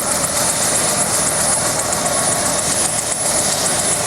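UH-1 Huey helicopter running, a steady loud roar with a fast, even rotor beat and a thin high whine.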